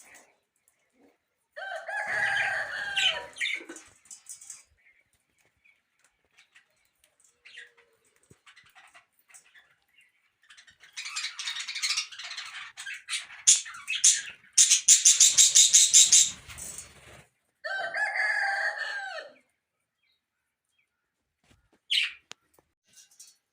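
Birds calling: a long, pitched call near the start and another like it near the end. Between them comes a louder, harsh stretch of squawking that breaks into a fast rattling chatter.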